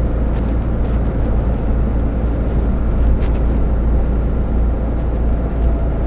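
Lorry engine and road noise in the cab while driving at motorway speed: a steady low rumble with a wash of tyre and wind noise above it.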